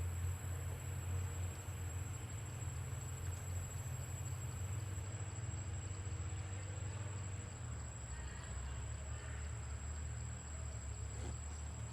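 Steady low rumble of outdoor background noise with a thin, steady high-pitched tone over it.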